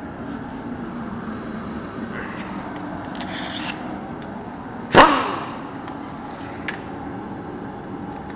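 Metalwork on a tractor being dismantled: a short hiss a little past three seconds, then one loud, sharp metal clank about five seconds in that rings briefly, over steady background noise.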